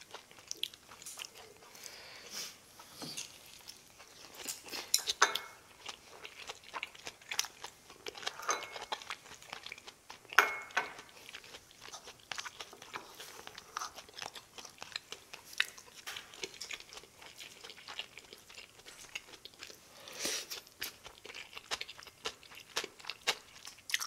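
A person chewing and crunching mouthfuls of food close to the microphone, with many short wet clicks and crackles of chewing and biting.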